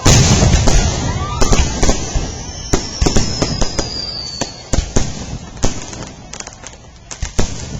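Fireworks going off: a loud bang at the start, then a run of sharp pops and crackles, with a falling whistle about three seconds in.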